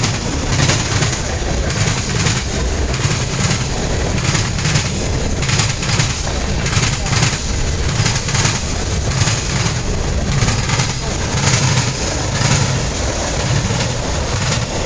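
Freight train wheels clattering over a railroad diamond crossing: a run of sharp, uneven bangs over a steady low rumble of the passing train.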